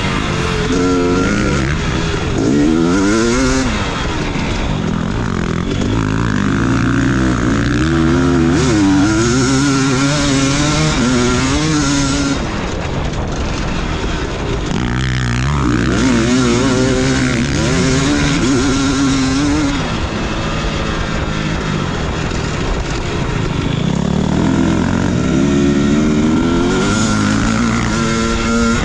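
Motocross dirt bike engine revving up and down as it is ridden hard around a track, its pitch climbing and falling repeatedly with each gear change and throttle chop.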